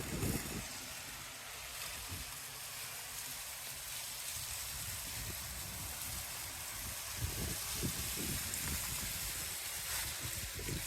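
Water spraying from a water truck's hose onto the ground, a steady hiss, with irregular low rumbling that grows from about seven seconds in.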